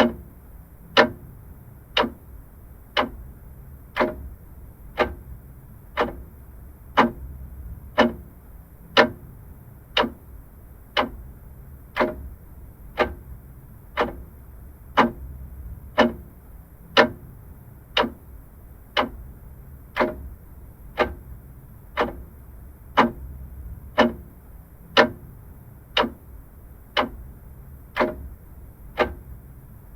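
Vintage mechanical clock ticking steadily, one sharp tick a second.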